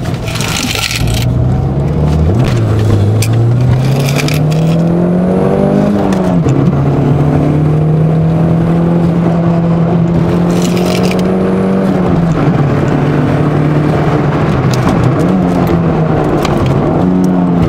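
1992 Toyota MR2 Turbo's turbocharged 2.0-litre four-cylinder, heard from inside the cabin, under hard acceleration. The revs climb, drop sharply about six seconds in, hold steady and high for several seconds, then fall again about twelve seconds in and rise and fall near the end. A few short bursts of hiss come over the engine.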